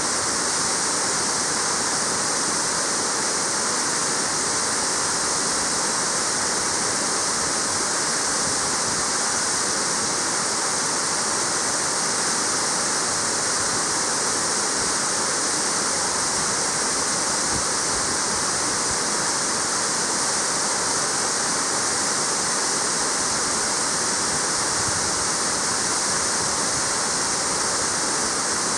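Marugami Falls, a waterfall, pouring steadily: a constant, even rush of falling water.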